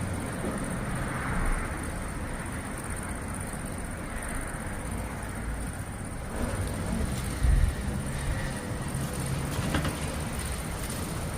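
Outdoor storm-watch ambience: a steady noise bed with a faint high whine, broken by brief low rumbles about a second and a half in and again around the middle, the strongest a little past the middle.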